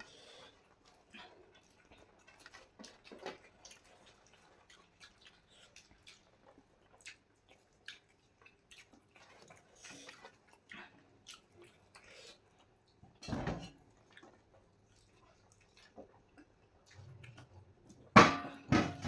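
Eating sounds: soft, scattered small clicks and smacks of food being handled and chewed, with a louder knock about thirteen seconds in and a louder clatter near the end.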